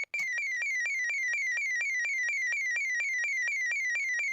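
Impuls 40D-OK door intercom panel sounding its open-door-sensor alarm: a steady electronic warble of short falling tones, about five a second, the signal that the entrance door is open.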